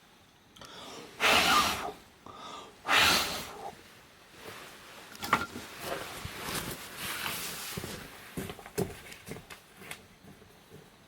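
Firewood burning in a wood-fired bath furnace, crackling with sharp pops and snaps. Near the start come two loud, hissing rushes of about half a second each.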